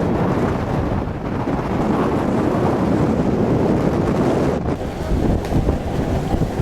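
Wind buffeting the microphone aboard a ferry under way, over a steady rush of water along the hull.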